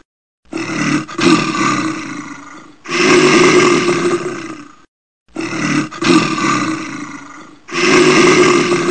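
An animal's loud, harsh calls: four of them, each about two seconds long, separated by short breaks of dead silence.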